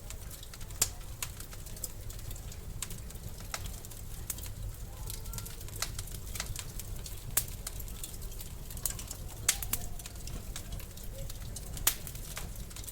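Wood fire crackling in a fireplace: irregular sharp pops and snaps over a low steady rumble, with a few louder pops scattered through.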